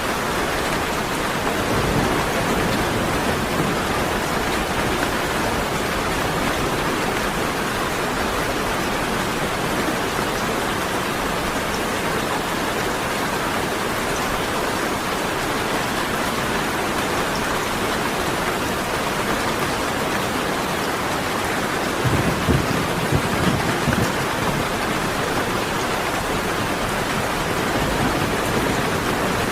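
Steady heavy rain falling. About two-thirds of the way through, a brief low rumble of thunder.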